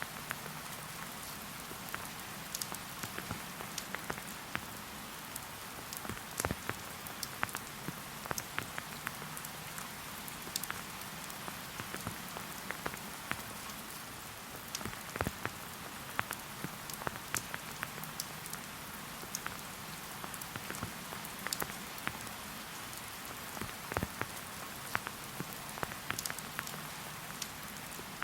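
Steady light rain falling in a forest, a soft hiss with many individual drops ticking sharply and irregularly on leaves and nearby surfaces.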